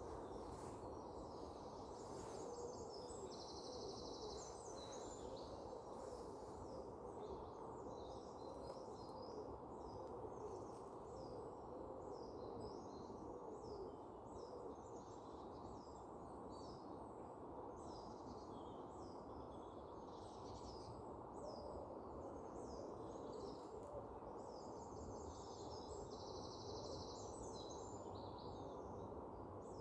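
Songbirds chirping, with many short high calls and a fast trill repeated twice, over a steady low background hiss.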